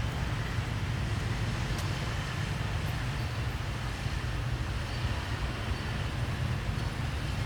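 Steady low rumbling background noise with an even hiss over it and a few faint clicks.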